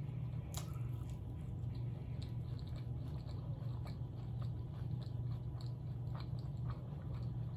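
A person chewing food close to the microphone, with scattered wet smacks and soft crunches over a steady low hum.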